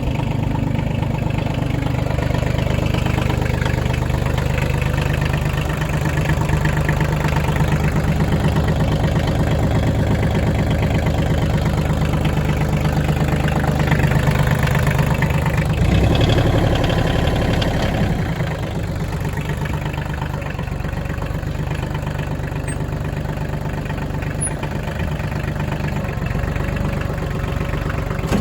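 Kioti CX2510 compact tractor's three-cylinder diesel engine idling steadily. There is a brief louder noise about sixteen seconds in, and the engine runs a little quieter after about eighteen seconds.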